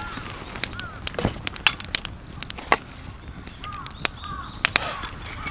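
Campfire crackling, with sharp irregular pops, while birds call in short arching notes several times.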